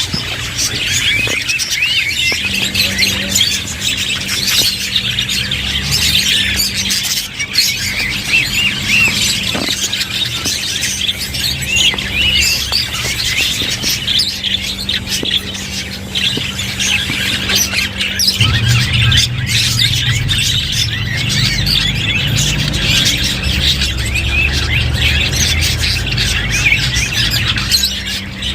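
Budgerigars chattering and warbling without a break: many overlapping chirps and squawks. A low steady hum runs underneath from a couple of seconds in.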